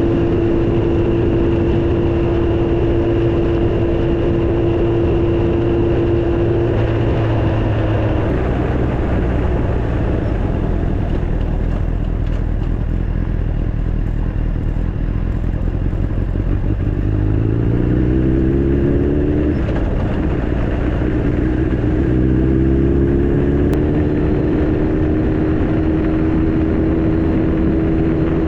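Honda Fireblade's inline-four engine running on the move, under heavy wind noise on the microphone. About two-thirds of the way in the engine note rises, drops at a gear change, then rises again and holds steady as the bike accelerates.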